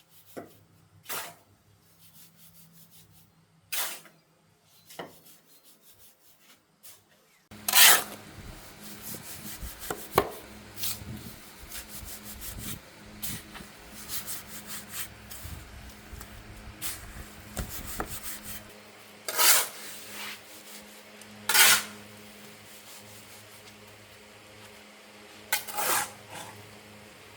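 Hand work with rubbing and scraping sounds and several sharp scrapes or knocks. It is sparse at first and denser from about eight seconds in, with a faint steady hum underneath.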